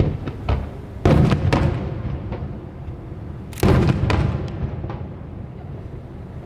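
Aerial firework shells bursting: a few sharp booms, the two loudest about a second in and a little over three and a half seconds in, each followed by smaller pops and a fading low rumble.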